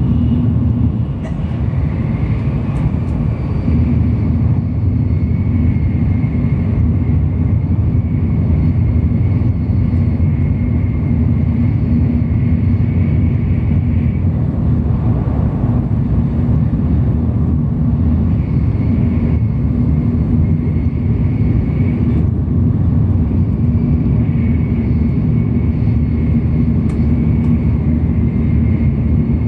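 Tokaido Shinkansen bullet train running, heard from inside the passenger car: a loud, steady low rumble with a thin high whine that fades in and out.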